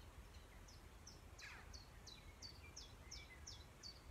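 Faint birdsong over a low background rumble: a small bird repeats short, high, falling chirps about three times a second from about a second and a half in, after one longer falling call.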